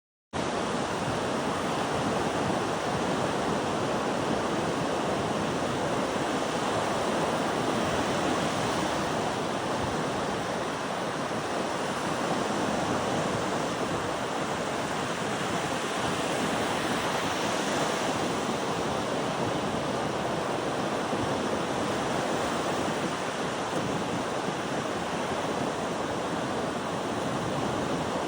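A steady rushing noise that starts abruptly out of silence and swells gently and slowly, with no tone or rhythm in it.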